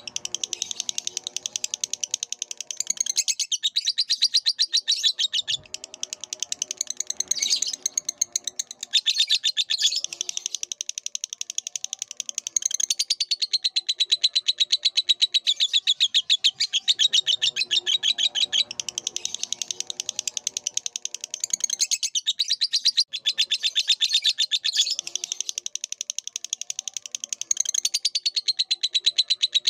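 Lovebird singing a long, fast chattering song of high chirps, with a few brief pauses. Fainter, lower warbling sounds come and go beneath it.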